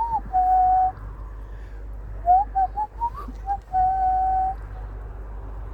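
Whistling: a few short rising and falling whistled notes and two longer held notes at one steady pitch.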